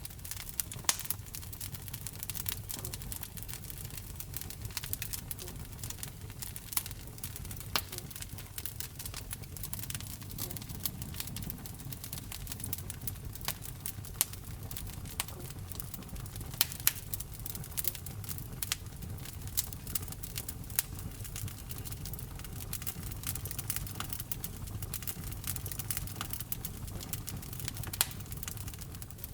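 Wood fire crackling in a fireplace: frequent irregular sharp pops and snaps over a low, steady rumble of the flames.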